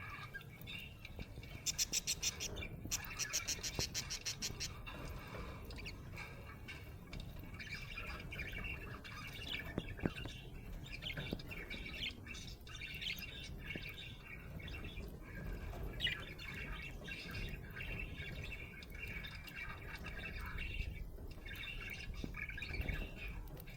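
Budgerigar chirping and chattering without a break, the happy chirping of a contented budgie. About two seconds in it gives a rapid string of sharp ticks lasting a couple of seconds.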